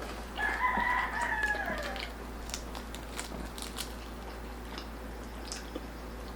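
A rooster crowing once, about a second and a half long, its pitch dropping at the end. Faint scattered clicks and taps follow.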